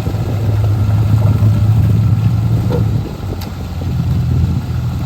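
A large engine running steadily with a low hum, easing off for a moment about three seconds in.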